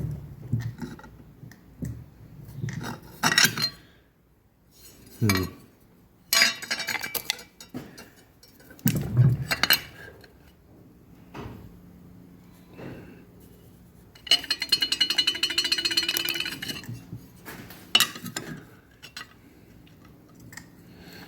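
Steel plate and fly press tooling clinking and knocking as the piece is struck and moved between strokes, a string of separate metallic clanks with a few seconds between most. About two-thirds through comes a rapid metallic rattle lasting a few seconds.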